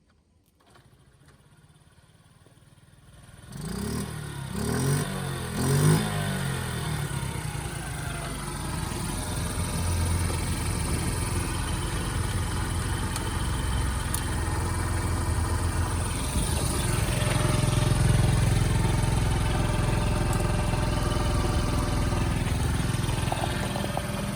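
Kit bike motorcycle engine starting: it catches about three and a half seconds in and is revved a few times, then settles into a steady idle.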